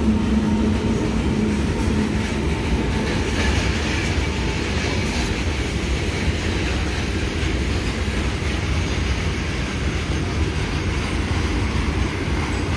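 A long freight train rolling past on the rails, a steady rumble of wheels and wagons, with a low hum fading out in the first second.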